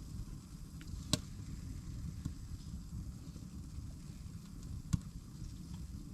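Wood fire crackling, with two sharp pops, about a second in and near five seconds, and a few fainter ticks over a low steady rumble.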